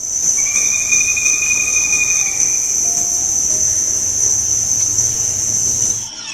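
Rainforest insects, cricket-like, holding a steady, high-pitched continuous trill, with a fainter lower-pitched call in the first couple of seconds. The trill cuts off suddenly about six seconds in.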